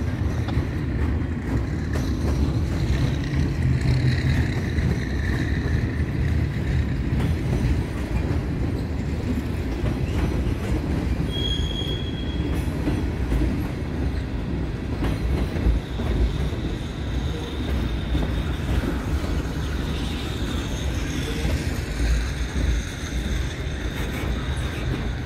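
Freight cars of a long mixed train rolling past: a steady low rumble of steel wheels on the rails, with faint wheel squeals and one short, sharp high squeal a little past halfway.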